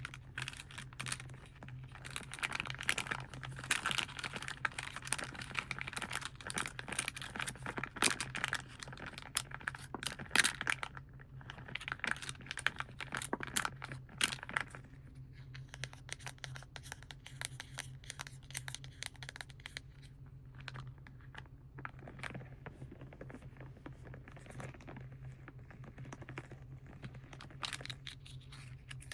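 Plastic and foil paint packaging being crinkled and scratched close to the microphone: dense crackling for about the first half, then lighter, sparser clicks and taps. A steady low hum sits underneath.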